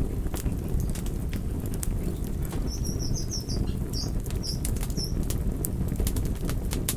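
Campfire burning with a steady low rush and scattered sharp crackles and pops. A bird chirps a quick run of high notes in the middle.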